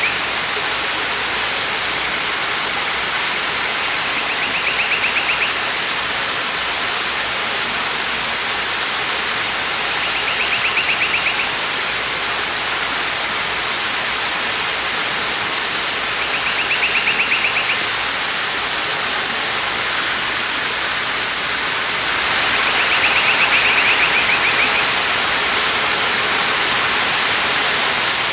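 Waterfall: steady rushing water. A bird's short, rapid trill sounds over it about every six seconds, four times.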